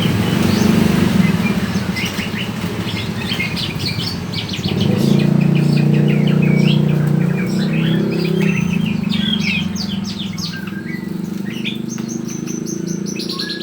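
Many caged birds chirping and trilling at once, with a steady low hum underneath.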